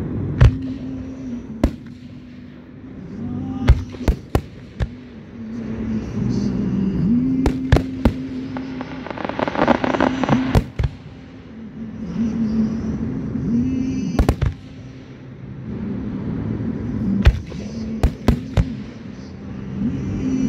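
Aerial fireworks shells bursting in sharp bangs, some alone and some in quick clusters of two or three, with a denser noisy stretch near the middle.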